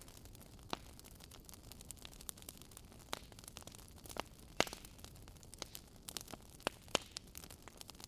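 Logs burning in a fireplace, crackling with irregular sharp pops and snaps over a faint steady hiss. The loudest pops come about four and a half seconds in and again about seven seconds in.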